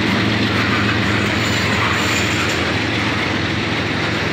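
Freight train tank cars rolling past at close range: a steady rumble of steel wheels on the rails, with a faint high wheel squeal near the middle.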